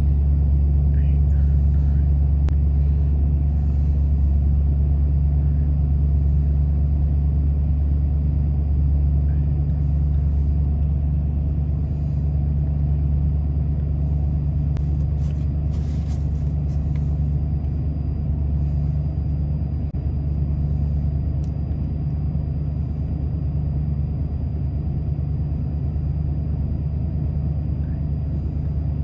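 1993 Ford F-150 engine idling steadily but roughly, in limp mode with a throttle position sensor fault code stored.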